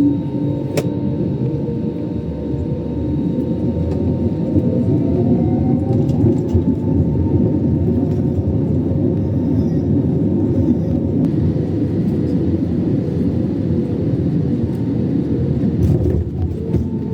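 Steady low rumble inside the cabin of a China Airlines Airbus A321neo, with faint humming tones over it and one faint tone rising a few seconds in.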